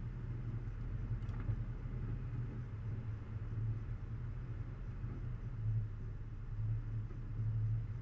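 A 4x4's engine runs with a steady low drone as the vehicle climbs a rutted dirt track, pulsing slightly in level.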